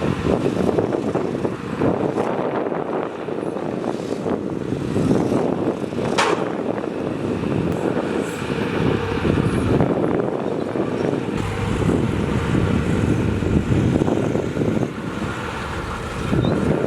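Heavy diesel machinery running steadily under load, with a brief sharp sound about six seconds in.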